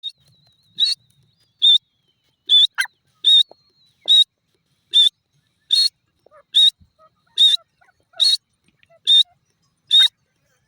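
Grey francolin (teetar) calling: a steady series of short, high-pitched notes, a little more than one a second.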